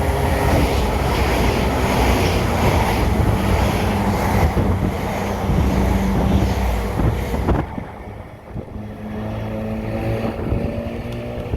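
A train passing close by at speed, its wheels and body rumbling loudly. The rumble cuts off suddenly about seven and a half seconds in as the train clears. An engine's steady drone carries on after it.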